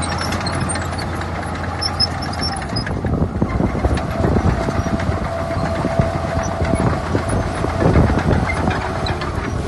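Heavy diesel engine of earthmoving machinery running steadily, with a dense rattling that picks up from about four seconds in.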